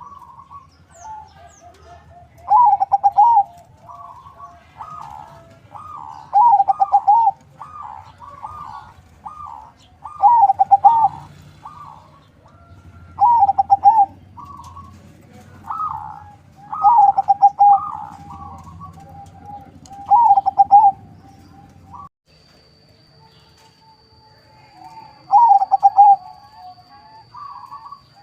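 Perkutut (zebra dove), a local–Bangkok cross, cooing: a string of loud, rolling coo phrases about every two to three seconds, with a pause of a few seconds before one more phrase near the end.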